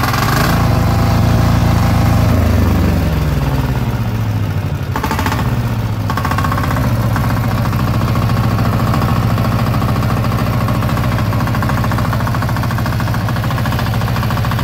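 Maestro 10 HP single-cylinder diesel engine running just after a pull start: revving high at first, then the pitch drops over a couple of seconds as it settles into a steady idle. A brief clatter comes about five seconds in.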